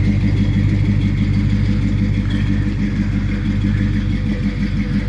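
1984 Chevrolet C10 Silverado's 305 small-block V8 idling steadily, left running to warm up after a cold start.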